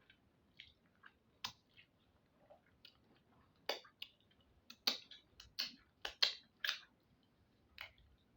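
Close-up mouth sounds of a person eating akpu with onugbu soup and roasted fish: irregular wet clicks and lip smacks while chewing, sparse at first, then a quicker run of louder smacks in the second half.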